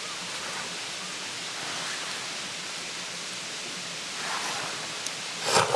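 Steady outdoor noise like distant running water, with a short louder rustle or scrape near the end.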